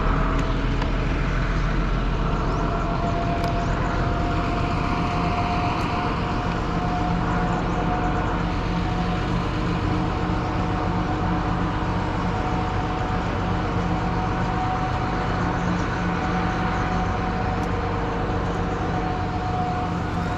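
An engine running steadily at an even speed, with a constant low hum and a steady higher whine over a rushing hiss.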